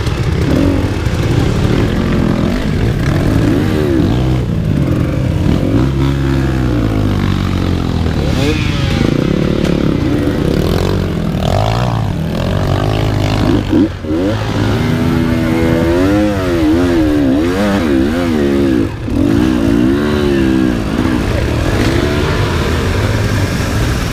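Enduro motorcycle engine revving hard and varying, its pitch swinging up and down with the throttle, with a couple of brief drops in the middle.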